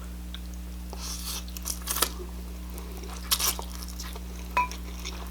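A person biting and chewing crunchy food close to the microphone, with crisp crunches about one, two, three and a half and four and a half seconds in.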